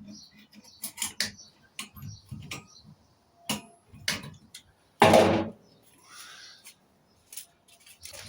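Scattered clicks and knocks of hand tools and metal parts being handled while a microwave is taken apart for scrap, with one louder clatter about five seconds in.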